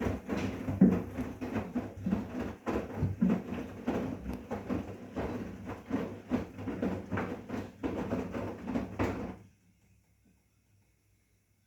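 Bosch WGA25202TR front-loading washing machine's drum turning a load of wet laundry during a wash, with uneven thuds and sloshing as the clothes fall, stopping suddenly about nine seconds in as the drum pauses between turns.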